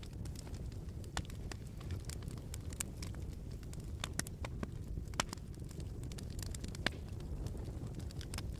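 Wood fire crackling in a fireplace: a steady low rumble with irregular sharp pops and snaps, a few louder ones scattered through.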